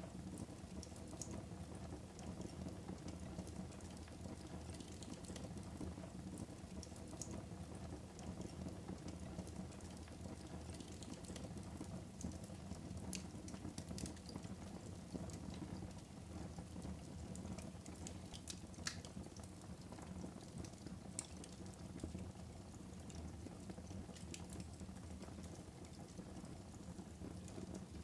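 Wood fire burning in a fireplace: a steady low rush of flames with scattered sharp crackles and pops, a few louder ones past the middle.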